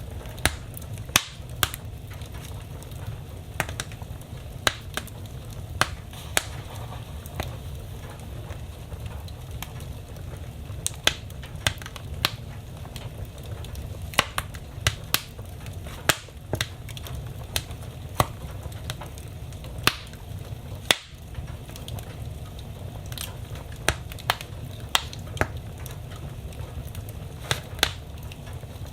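Wood fire burning in a fireplace, crackling with irregular sharp pops, some much louder than others, over a steady low rumble.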